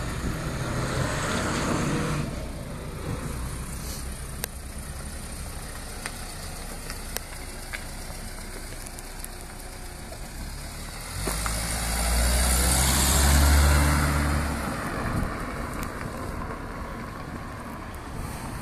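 BMW E30 pickup conversion's engine running as it drives round the yard. It grows loud about eleven seconds in as the truck passes close by, is loudest a couple of seconds later, then fades as it pulls away.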